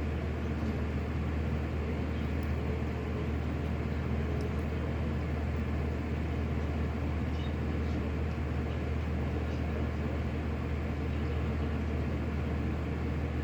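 Electric fan running steadily close to the microphone: a constant low motor hum with the even rush of moving air.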